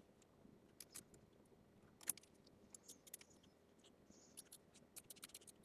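Faint, scattered snips and clicks of small scissors trimming the excess fabric from an appliqué piece close to its stitch line, with a quick run of snips near the end.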